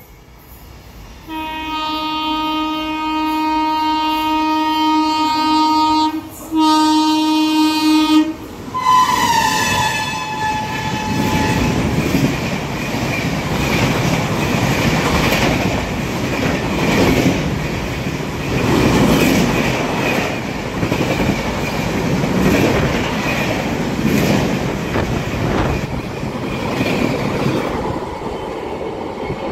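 Locomotive air horn sounding two long blasts as an express train approaches, with a brief drop in pitch as the engine passes about nine seconds in. Then the coaches rush through at high speed, with a heavy rolling clatter of wheels over the rails that swells every couple of seconds.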